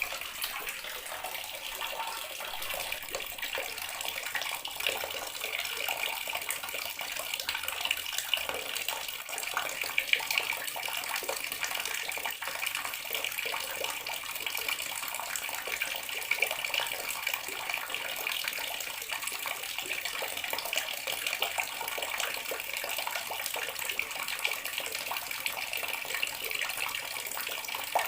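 Water running steadily from a bathroom tap and splashing into the basin or tub below, a continuous hiss with small irregular splashes.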